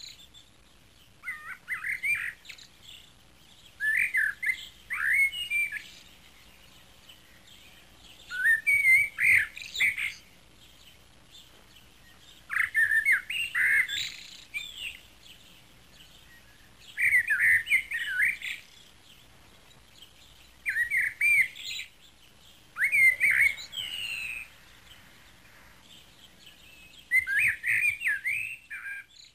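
A songbird singing short phrases of quick, rapidly rising and falling chirps, repeated about every four seconds with quiet pauses between them.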